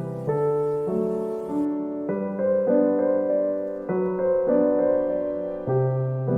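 Soft background piano music, slow sustained chords and notes changing every second or so over a low bass note.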